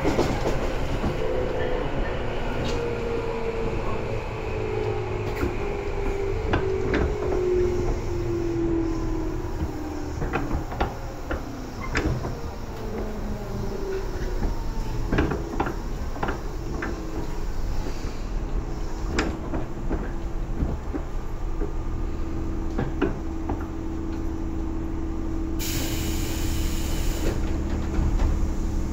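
Tobu 10000 series electric train running, heard from inside the car: a motor tone falls in pitch over the first dozen seconds, wheels click over rail joints, and a steadier hum sets in later. A brief hiss of air comes near the end.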